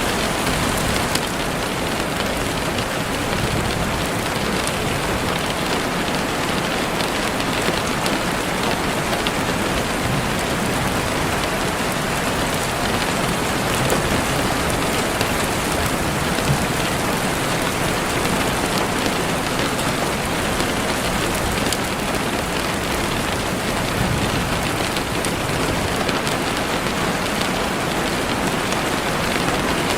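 Heavy rain falling steadily on leaves and the forest floor, a dense even hiss with scattered drop ticks.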